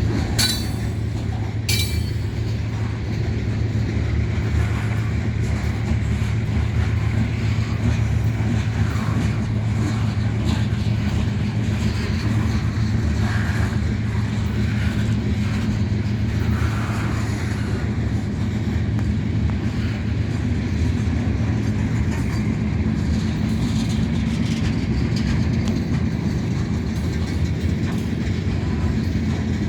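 Freight train rolling past, a steady rumble of wheels on rail, with a couple of sharp clicks in the first two seconds.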